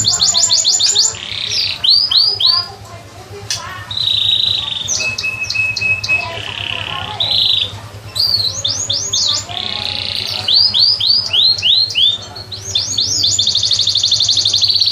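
A caged songbird singing in fast trills and quick repeated upward-sweeping notes, with one short steady whistled note midway. A steady low hum runs underneath.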